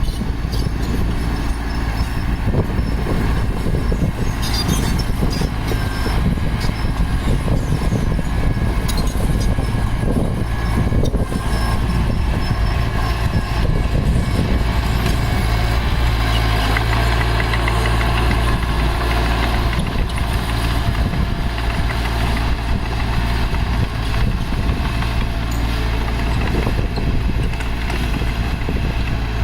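Heavy diesel earthmoving machinery running steadily, with irregular knocks and rattles over the engine.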